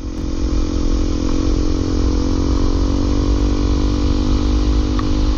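Honda CRF250L single-cylinder trail bike engine running at a steady speed while being ridden, with a heavy low rumble underneath.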